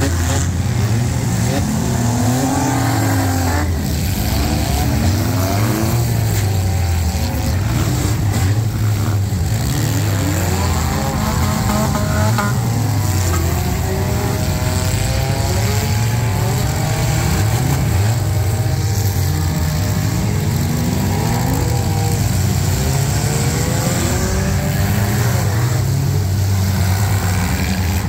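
Many demolition derby compact car engines running at once, several revving so that their pitches rise and fall over one another.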